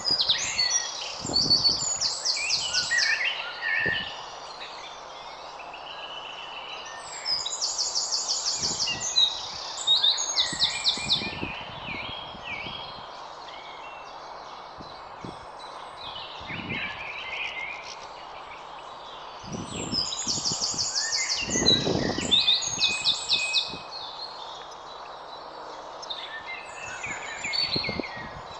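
Garden birds singing: three loud phrases of rapid repeated notes, each a few seconds long with pauses between, amid softer chirps over a steady background hiss.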